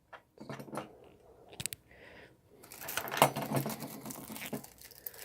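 Scattered clicks and knocks from handling a small metal model and its parts, then from about two and a half seconds in a dense crackling rustle of plastic packaging being handled.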